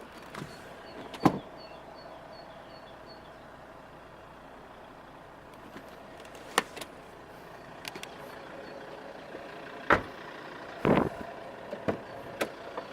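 Clicks and knocks from a car's doors and interior fittings being handled, over a steady hum. The sharpest knocks come about a second in and near ten seconds. Faint high beeps, about three a second, sound in the first few seconds.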